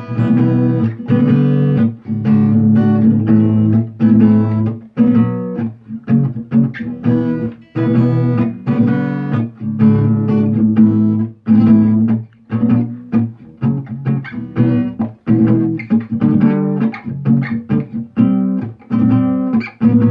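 Guitar played with a percussive knocking technique: strummed chords interleaved with rhythmic strikes on the guitar.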